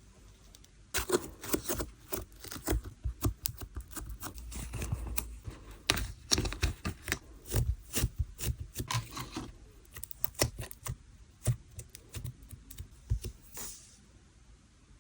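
Sand-textured slime being worked by hand, giving a dense run of sharp crackles and clicks that starts about a second in and stops shortly before the end.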